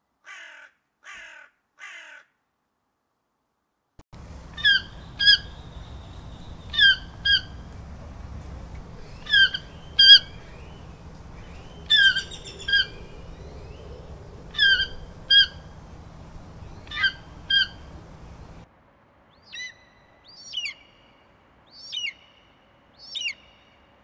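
Three short crow caws, then a toco toucan calling in pairs of sharp notes, six pairs about two and a half seconds apart, over a steady background hiss. Near the end come four high, thin calls from a bald eagle.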